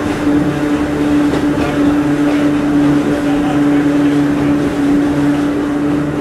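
Running sound inside Hakone Tozan Railway Moha 1 type car Moha 107, descending the mountain line: the nose-suspended (tsurikake) traction motors and gears give a steady whine at one pitch over the rumble of wheels on rail.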